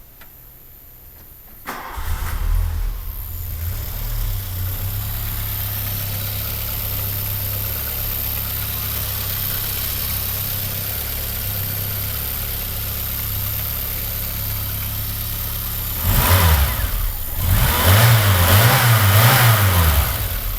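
A Volkswagen engine with CIS fuel injection starts about two seconds in and settles into a steady idle. Near the end it is revved up and let back down a couple of times.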